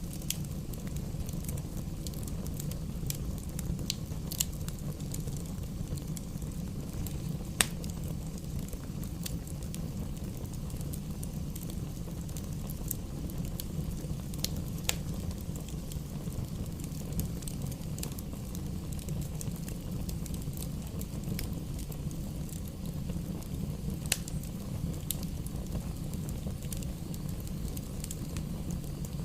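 Campfire burning: a steady low rumble of flames with scattered sharp crackles and pops from the burning wood. The loudest pops come about eight seconds in and again about 24 seconds in.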